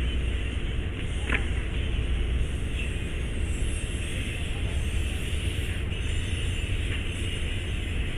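Steady rumble of a train, with a single click about a second in.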